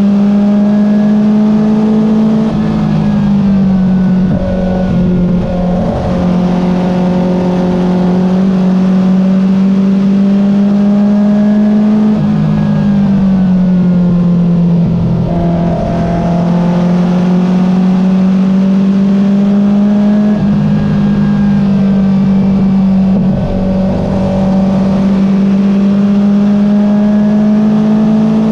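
Porsche 914 race car's engine running hard under load, heard from inside the open cockpit. Its note climbs slowly and dips briefly three times.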